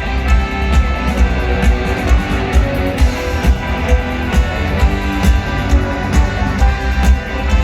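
Rock band and symphony orchestra playing live together, with a steady beat about twice a second.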